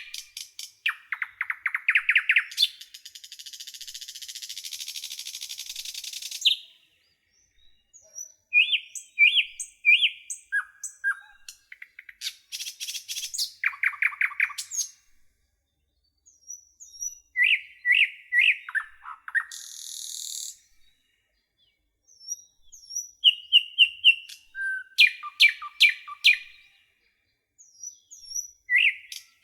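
Several songbirds singing and calling in turn. There are rapid trills, short whistled and slurred notes, and two longer buzzy notes, separated by brief pauses.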